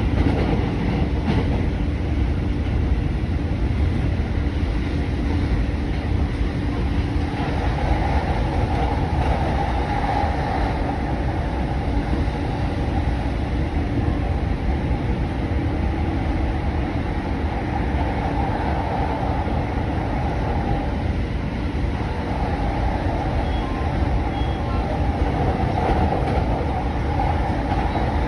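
Electric commuter train running along the rails: a steady low rumble of wheels and track, with a higher rushing noise joining from about seven seconds in.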